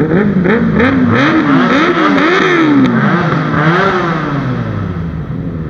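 Motorcycle engine revving up and down several times in quick succession, then winding down.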